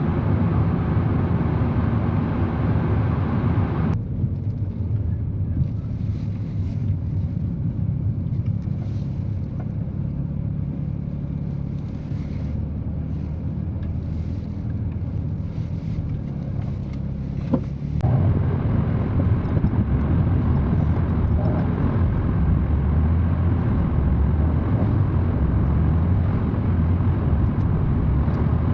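Alpine A110 driving on the road: a steady low engine and road rumble. The higher tyre hiss drops away abruptly about four seconds in and comes back just as abruptly about fourteen seconds later.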